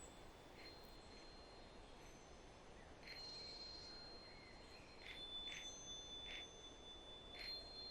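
Faint, soft high chimes struck several times, each note ringing on as a thin steady tone.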